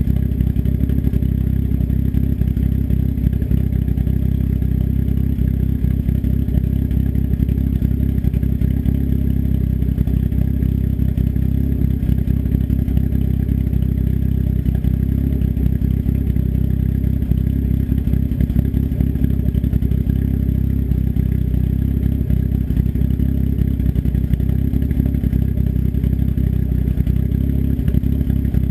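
Engine fitted with an S257 turbo and custom cams, idling steadily through an open 3-inch turn-down dump off the downpipe, with no muffler. The idle is low and even, with no revving.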